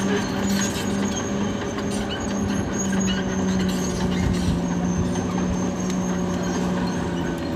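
Caterpillar D6R XL crawler bulldozer at work: its diesel engine runs with a steady drone, and its steel tracks clank and clatter as it moves.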